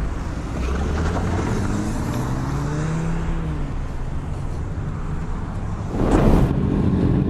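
Motor vehicle engine running on the road with steady road and wind noise; its pitch rises and then falls around the middle, and a short rush of noise comes about six seconds in.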